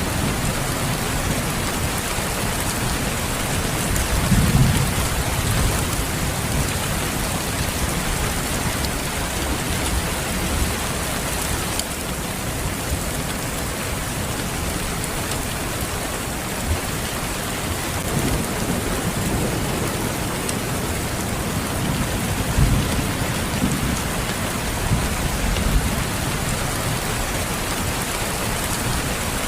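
Steady, heavy rain pattering, with low rumbles of distant thunder swelling about four seconds in and again past the twenty-second mark.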